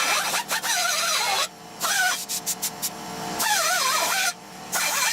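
Electric drill driving a 2-inch hole saw through a steel exhaust pipe, the cutting teeth grinding and screeching with a wavering pitch. The drill stops briefly twice and starts again.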